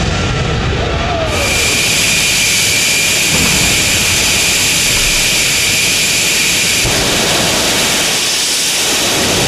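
Jet dragster's turbine engine running loud. About a second in it jumps from a low rumble to a strong high hiss with a steady whine, and the whine drops away near the end.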